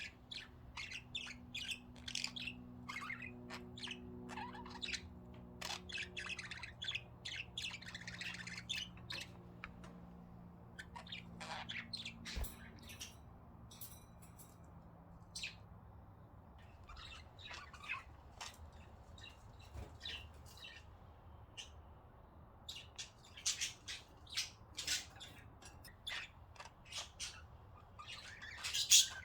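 Pet budgerigars chirping and chattering in short calls, with occasional squawks, busiest in the first few seconds and again near the end. A faint steady hum lies underneath.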